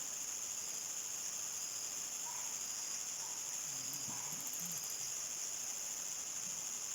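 Dense chorus of crickets: a steady, unbroken high-pitched trill, with a brief run of faster ticking about four seconds in.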